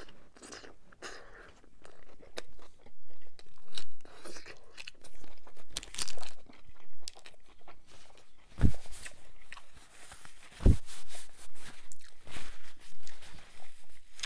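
Close-miked chewing of a Burger King Whopper, with irregular wet crunching through a mouthful of burger. Two dull low thumps come about two-thirds of the way through.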